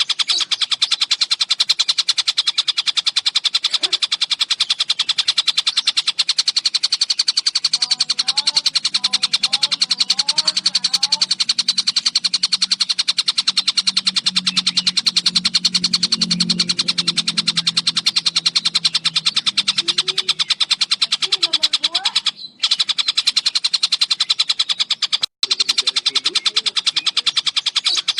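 Tengkek buto, a kingfisher, calling in a fast, unbroken run of high, rapidly repeated notes. The run breaks off for a moment twice near the end.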